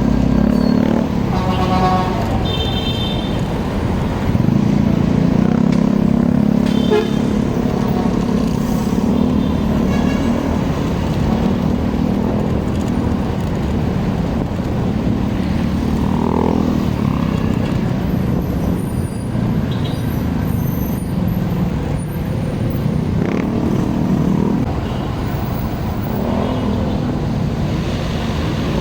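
Motorcycle engine running steadily while riding through city traffic, with wind on the microphone and surrounding traffic noise. A vehicle horn toots briefly a couple of seconds in.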